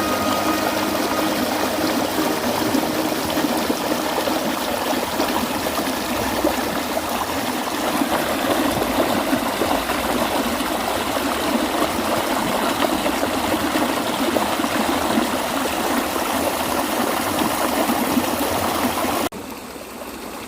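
A rocky valley stream running steadily, its water rushing and splashing. About a second before the end it cuts suddenly to a quieter water sound.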